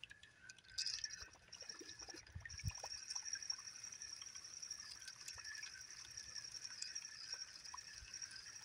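Whopper Plopper topwater fishing lure being reeled back across the surface, its spinning tail plopping and gurgling in the water with a steady high whir and many small ticks. It starts about a second in.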